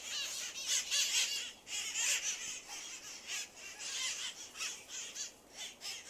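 Flock of parrots squawking, with many short, harsh calls repeating and overlapping throughout.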